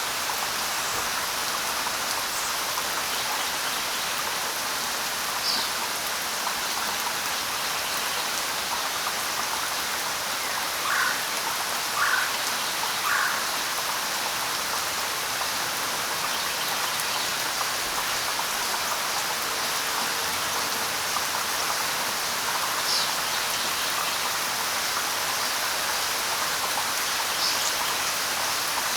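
Steady light rain falling on leaves, with a few brief bird chirps: one at about five seconds, three in a row around eleven to thirteen seconds, and two more near the end.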